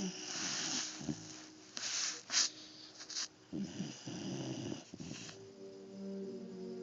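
A dog snoring in its sleep: a series of snoring breaths, about one every second or two.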